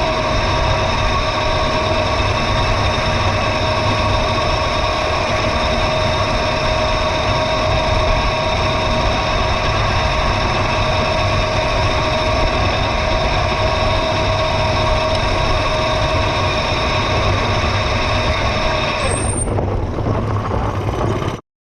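Mini bike running flat out on a dirt trail: a steady whine in several fixed tones over wind rumble. The main tone drops out about nineteen seconds in, and the sound cuts off suddenly about two seconds later.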